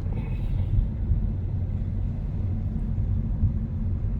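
Steady low road rumble and engine noise inside a moving vehicle.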